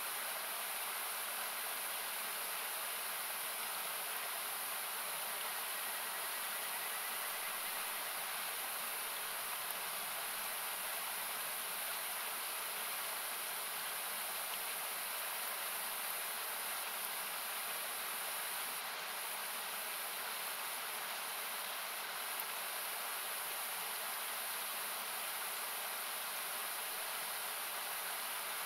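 Steady rushing of a river, heard as an even hiss with parts of it cut away by equalisation, and a single faint crackle from the campfire about three-quarters of the way through.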